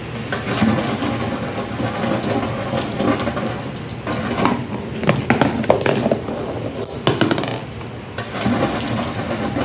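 Marbles rolling and clattering down a marble run: a steady rolling rattle with frequent clicks as they drop and strike the track, busiest around the middle.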